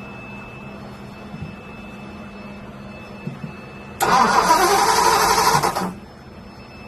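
1957 Ford Ranchero's 292 Y-block V8 cranked over by the starter for about two seconds, starting about four seconds in and stopping abruptly, without firing: no spark is reaching the plugs.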